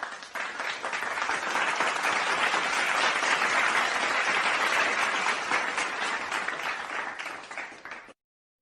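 Crowd applause, many hands clapping together. It builds over the first second or two, holds steady, then thins and cuts off sharply about eight seconds in.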